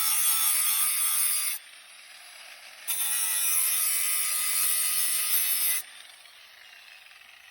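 A steel blade being ground against a sharpening wheel: a harsh hissing grind in two passes of about three seconds each. Each pass cuts off suddenly, and a much quieter running sound is left between and after.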